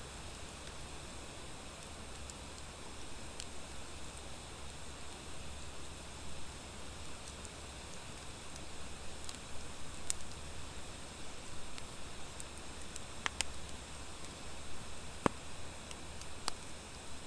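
Campfire of driftwood and dry hardwood logs burning: a steady soft hiss with scattered sharp crackling pops, the loudest about thirteen and fifteen seconds in.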